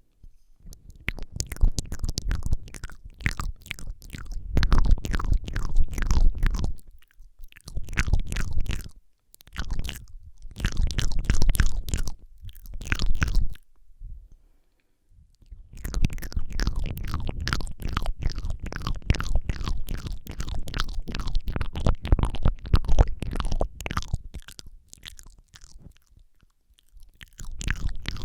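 Wet ASMR mouth sounds made close to a Rode microphone: rapid clicks, smacks and tongue sounds in bursts of a few seconds. The bursts are broken by short pauses, the longest about two seconds midway.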